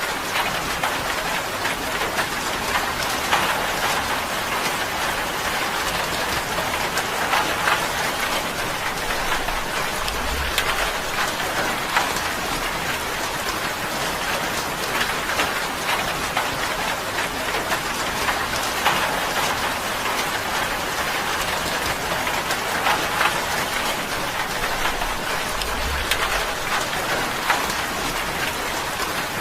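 Steady rain drumming on a tin roof: a dense, even patter of countless drops with fine ticks of individual drops on the metal. Twice, about ten and twenty-six seconds in, there is a brief faint low rumble.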